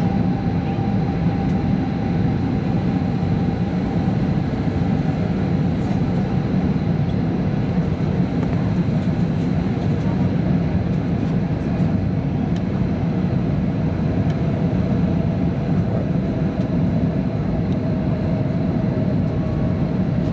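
Cabin noise inside an Airbus A320 on approach: a steady rush of engines and airflow, with a thin engine whine that drops slowly in pitch.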